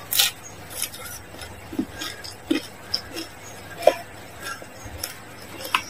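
Close-miked chewing of fried spring rolls: scattered soft crunches and wet mouth clicks, a couple a second, with no steady sound between them.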